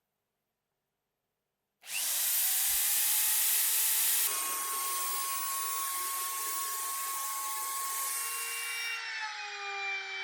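Compact router switched on, its motor whining up to speed within a second, then running steadily with a loud high hiss. Its tone shifts slightly a couple of times as it runs.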